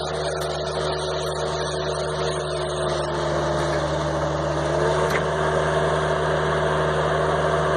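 A 1999 Bobcat 763 skid steer's diesel engine running steadily. Its speed picks up slightly about halfway through.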